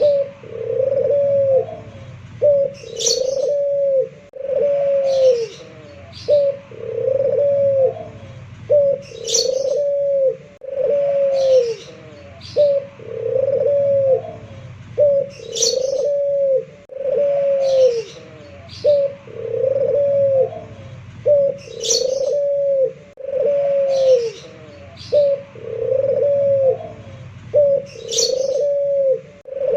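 A puter pelung (domestic Barbary dove) cooing over and over: low, arched coo notes follow one another almost without pause. A short, high chirp comes every three seconds or so.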